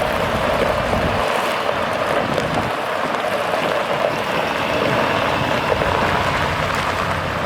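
2024 Ford F650 dump truck running: a steady noise with a constant mid-pitched hum, and a low rumble that drops away about a second in.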